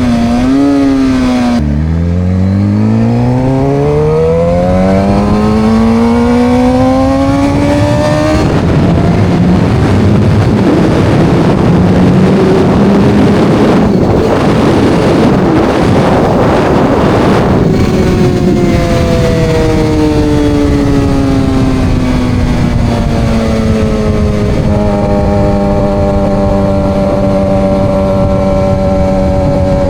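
Suzuki GSX-R750 inline-four with aftermarket Coffman slip-on exhaust under way. The engine note climbs steadily in pitch under acceleration for several seconds, then a loud rushing noise covers it for about nine seconds. After that the note falls as the bike slows and settles into a steady cruise near the end.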